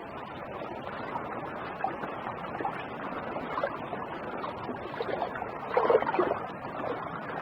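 Watery rock-pool ambience, an even wash of water noise with scattered small clicks, and a louder patch of crackling clicks about six seconds in.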